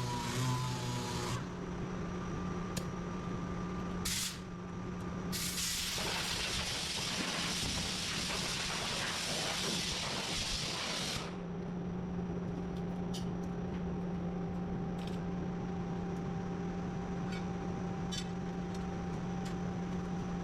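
Hissing spray of air, a short burst about four seconds in, then a longer, louder one lasting about five seconds, over a steady low machine hum.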